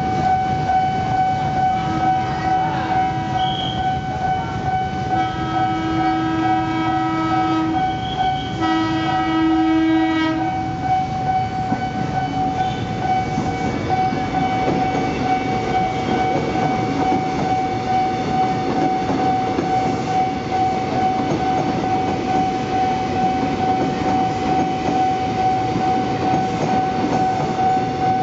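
Former Toyo Rapid Railway 1000 series electric commuter train sounding its horn three times as it approaches, the second and third blasts longer than the first. It then runs past with steady rumbling and wheel clatter on the rails, and a steady high tone sounds underneath throughout.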